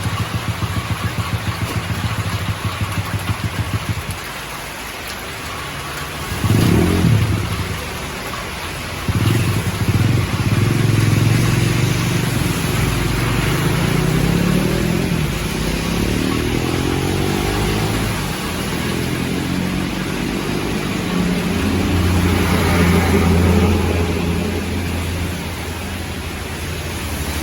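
A motor vehicle engine running, pulsing at first, revving up briefly about six seconds in, then changing pitch and settling into a steady low hum, over a steady hiss of heavy rain.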